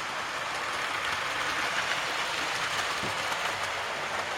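00 gauge model train running along the layout track: a steady rolling whir of wheels on rail and motor, with faint ticks over the rail joints.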